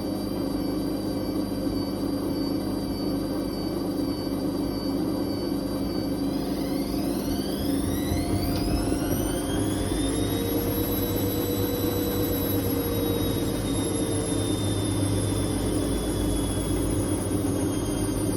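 Whirlpool Indiana 1400 washing machine spinning its drum, with a steady hum and drone. About a third of the way in, the motor whine rises in pitch for a few seconds as the drum speeds up, then holds at the higher spin speed.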